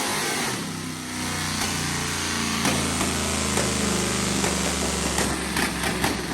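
408 cubic-inch stroker V8 engine falling from high revs back to idle about a second in, then idling with its speed wavering slightly. A few sharp clicks sound near the end.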